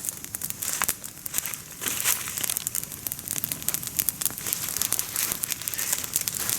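Small twig campfire crackling with many sharp little snaps, together with close rustling and crinkling of dry leaves.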